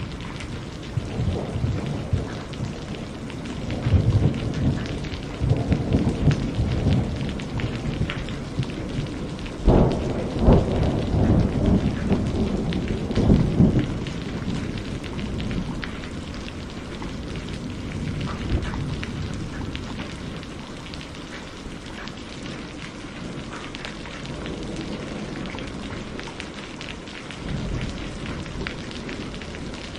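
Steady rain with rolling thunder. The thunder rumbles on and off through the first half, with a sharp crack about ten seconds in, then dies back to the rain alone.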